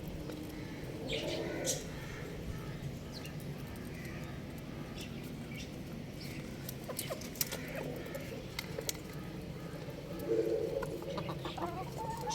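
Young rooster chirping and clucking in short, scattered calls, with a couple of louder clucks about a second in and near the end, over a steady low background noise.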